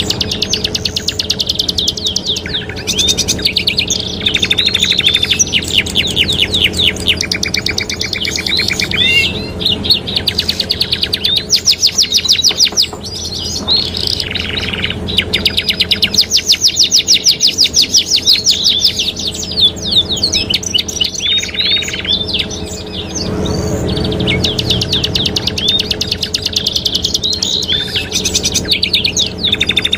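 Domestic canaries singing vigorously and without pause: long rapid rolling trills and chirped phrases, one after another. A steady low hum runs underneath.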